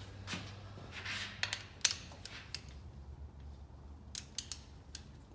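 Rustling and a scatter of light, sharp clicks from parts and tools being handled; the sharpest click comes near two seconds in, and a quick run of clicks follows about four seconds in, over a faint steady low hum.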